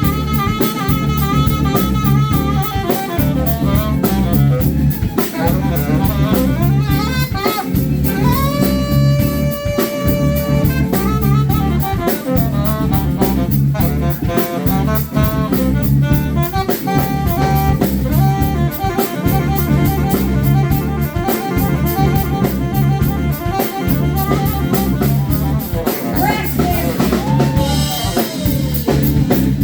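Live drums and brass horns playing together: a steady, driving drum beat under horn lines, with a long held horn note about nine seconds in and a falling horn slide near the end.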